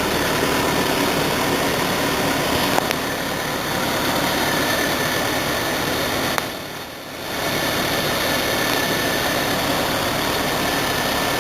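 2001 Volkswagen Cabrio's 2.0-litre four-cylinder engine idling steadily. It goes briefly quieter for about a second a little past the middle.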